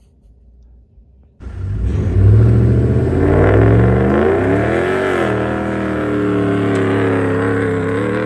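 Ram 1500's 5.7 HEMI V8 catching and running: it starts suddenly about a second and a half in, rises and falls in pitch once, then runs steadily and loudly.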